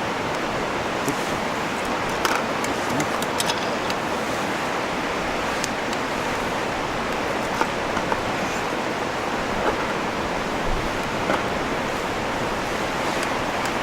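Wood fire crackling, with a dozen or so scattered sharp pops over a steady rushing hiss.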